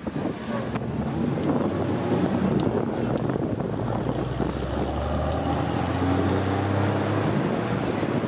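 Car engines running at low speed in slow street traffic, with road noise and wind on the microphone. A steady low engine note stands out from about four to seven seconds in.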